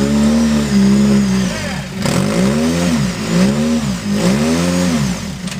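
Polaris RZR side-by-side's engine under load climbing a rocky waterfall: held at steady revs, then revved up and let back down three times in quick succession before settling.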